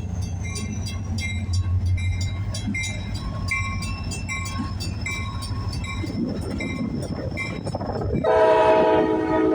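CSX diesel locomotive rumbling past with a bell ringing rapidly and steadily. Near the end the locomotive's multi-chime air horn starts to blow loudly.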